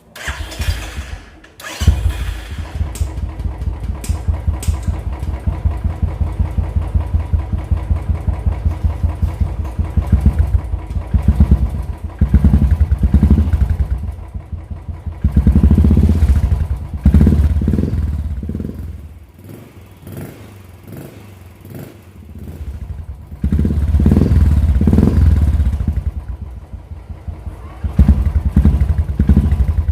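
Royal Enfield Bullet's single-cylinder engine breathing through an official RE Peashooter exhaust with the DB killer removed: it fires up near the start and then runs with a steady thump, revved up several times between stretches of idling.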